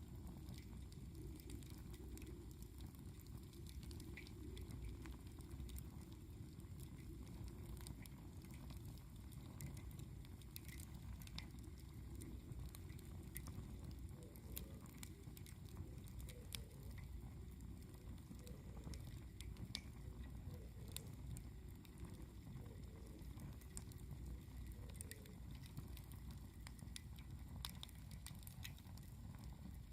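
Wood campfire burning with scattered small crackles and pops over a steady low rumble.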